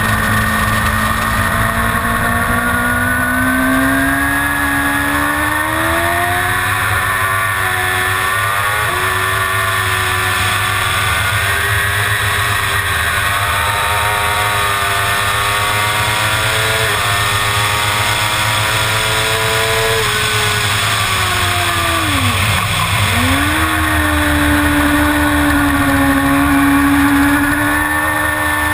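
Suzuki GSX-R750 inline-four engine at racing revs, its pitch climbing through several upshifts. About three quarters of the way through the revs fall away sharply, as when braking and downshifting for a corner, then pick up again and hold steady.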